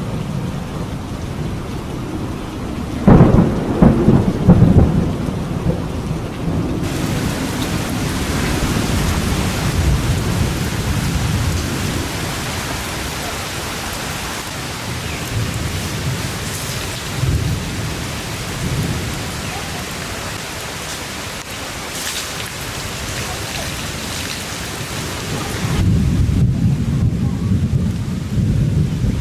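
Thunderstorm: steady heavy rain with rumbling thunder, and a loud thunderclap about three seconds in that rolls on for a couple of seconds.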